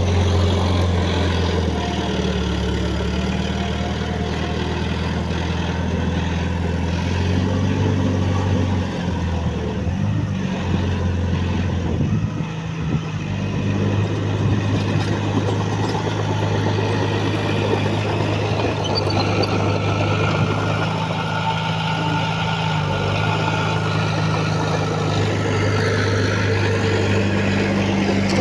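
Heavy diesel engine of earthmoving machinery running steadily, with a brief drop and change in its note about twelve seconds in.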